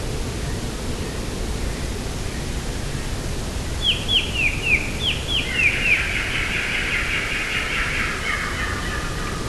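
A small songbird sings one phrase over a steady rushing background: a run of quick falling notes about four seconds in, followed by a lower, jumbled twitter lasting about three seconds.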